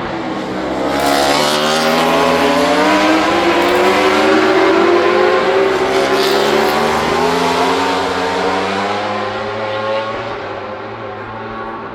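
Racing motorcycle engine at speed on the circuit, its pitch rising steadily for several seconds as it accelerates, then fading. A steady low drone runs beneath it.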